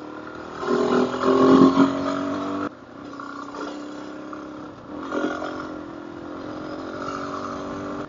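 Adventure motorcycle engine revving up and down while riding, loudest in the first couple of seconds, then dropping off suddenly and running on more quietly and steadily.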